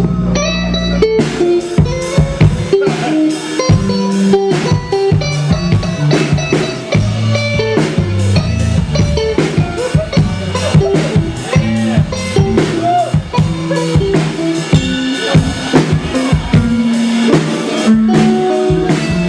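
A live rock band playing an instrumental passage: guitars and bass over a full drum kit, with rimshots and bass drum in a steady beat.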